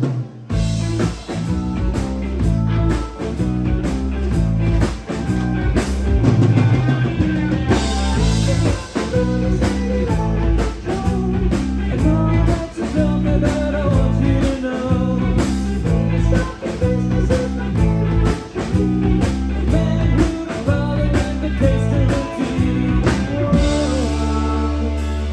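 Rock band playing live: drum kit keeping a steady beat under electric guitar and bass. Near the end the drums stop and a held chord rings on.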